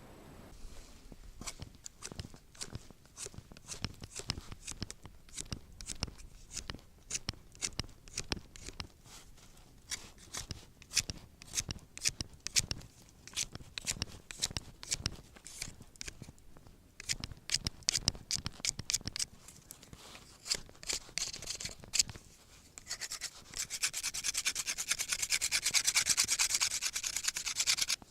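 Irregular scraping and rubbing noises with sharp clicks, then, about five seconds before the end, a steady fast rasping scrape that cuts off suddenly.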